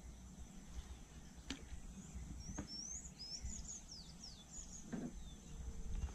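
Birds chirping: a quick run of high, sliding chirps from about two seconds in to near the end, with a couple of faint clicks early on.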